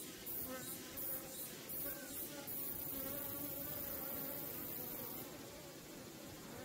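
Many Korean native honeybees buzzing together in a wavering hum. A high hiss comes in pulses at first, holds steady, and stops about five seconds in.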